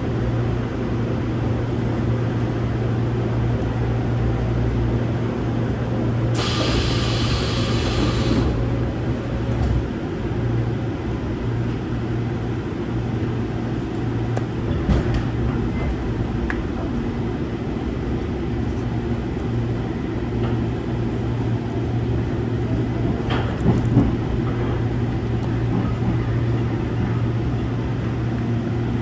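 Seoul Line 1 electric train standing at a platform, heard from inside the car: a steady low hum of its onboard equipment, with a hiss of compressed air lasting about two seconds a few seconds in, and a couple of short knocks later on.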